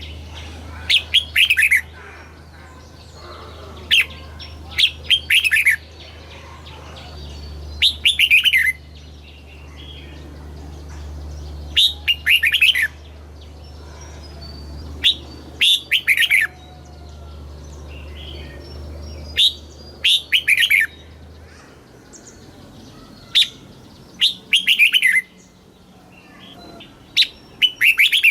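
Red-whiskered bulbul singing: short bursts of quick, falling whistled notes, repeated every few seconds. Under the song runs a low steady hum that cuts off about three-quarters of the way through.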